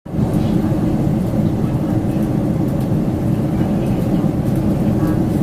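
Steady cabin roar inside a Boeing 747-400 in flight, the deep, even noise of engines and airflow heard from a passenger seat; it starts abruptly as the clip begins.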